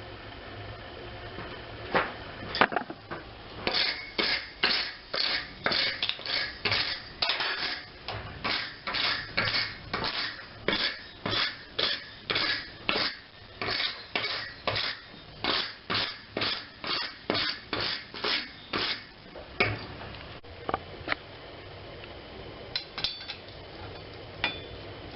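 Hammer striking a steel railroad spike on an anvil, with ringing metallic blows. After two sharp hits it settles into an even run of a little over two blows a second for about fifteen seconds, then trails off into a few scattered knocks.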